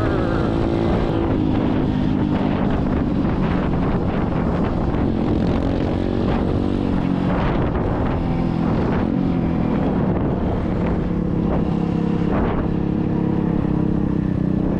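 SSR 125cc dirt bike's single-cylinder four-stroke engine running at fairly steady revs while riding, with wind on the microphone.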